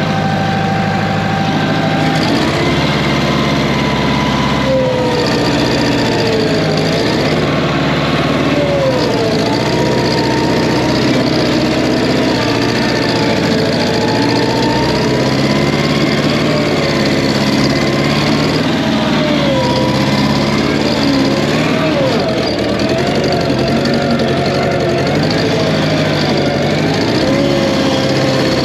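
Air-cooled Wisconsin 30 HP engine in a Massey Ferguson 771 skid steer running steadily, with a higher whine above it that wavers in pitch. It runs with a slight miss, which the owner puts down to old gas in the tank.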